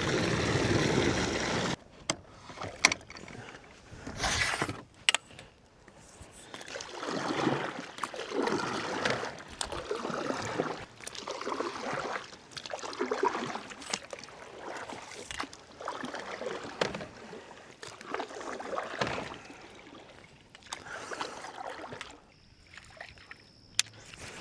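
Water slapping and sloshing against a canoe hull in choppy, wind-driven water, in repeated swells about once a second, with a few sharp knocks and clicks.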